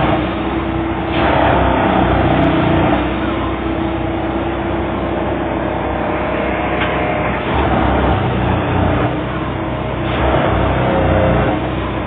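Plasser & Theurer 09-32 CSM Duomatic track-tamping machine at work: a continuous mechanical run with a steady hum, and louder surges every one to two seconds as the tamping cycle repeats.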